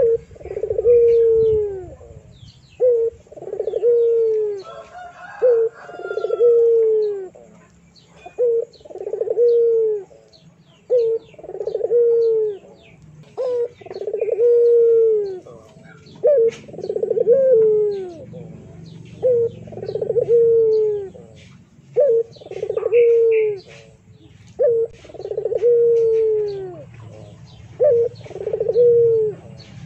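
A bird calls over and over, a short note then a longer falling call about every two seconds, with fainter chirps from other birds.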